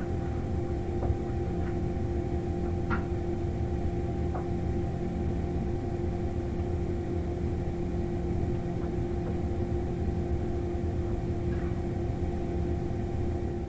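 Steady machine hum over a low rumble, with a few faint clicks; it cuts off suddenly at the very end.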